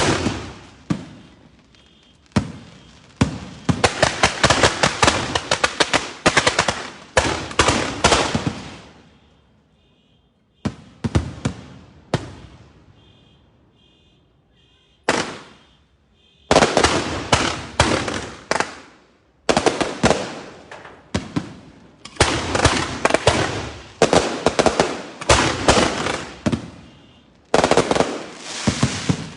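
Cart-mounted fireworks going off in rapid salvos of sharp bangs, heard at close range. The bangs come in dense runs of several seconds, with two quieter lulls near the middle before the firing picks up again.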